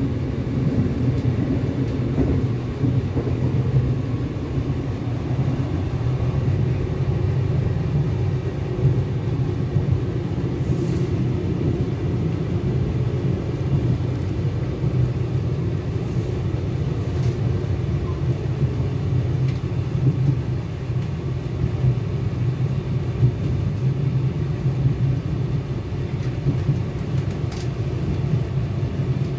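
Steady low rumble inside a Class 4000 diesel multiple unit running at speed, from the underfloor diesel engine and the wheels on the track. A few faint clicks come through at odd moments.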